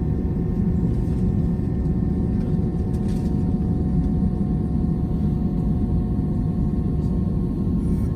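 Steady low rumble of an Airbus A319's jet engines and airframe heard from inside the passenger cabin, with a faint steady hum running through it.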